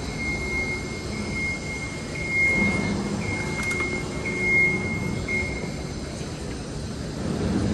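City background noise: a low rumble with a thin, steady high-pitched whine that breaks off briefly a few times and stops about six seconds in.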